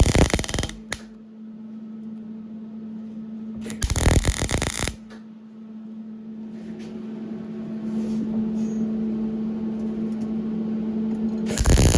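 Welding on the 3-inch mild-steel exhaust pipe: a harsh crackling burst at the start, another about four seconds in lasting about a second, and a longer one starting near the end, with a steady low hum between them.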